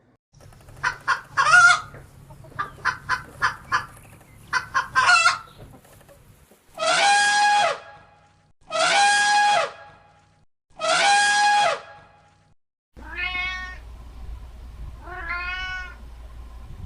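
A run of animal calls: short clipped calls in quick groups, then three long, even calls at regular intervals, then two arching calls near the end.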